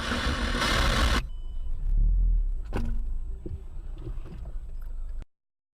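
Vehicle noise: a loud hiss for about the first second, then a low rumble with a few light knocks, cutting off suddenly near the end.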